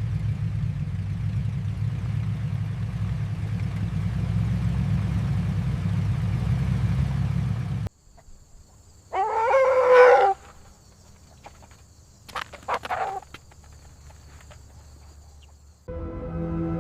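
A rooster crowing once for about a second, followed a couple of seconds later by a few short chicken clucks, over a quiet background with a faint high steady whine. Before the crow is a steady low rumble that cuts off abruptly; near the end, ambient music with sustained tones cuts in.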